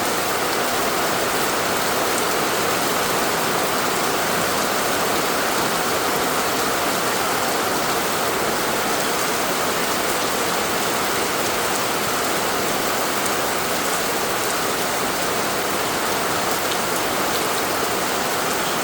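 Steady heavy rain pouring down and pattering on surfaces, a constant even hiss.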